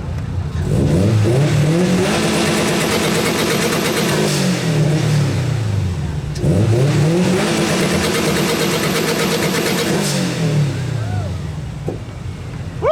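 2004 Subaru WRX's turbocharged flat-four engine revved hard twice, each rev climbing quickly, held high for about three seconds, then falling back to idle. It is loud enough to read 105.4 dB on the meter.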